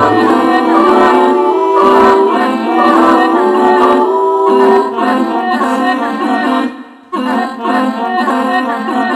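Choir singing a contemporary choral piece, several voice parts in held, shifting chords. The sound dips briefly about seven seconds in, returns for a closing chord, and cuts off right at the end.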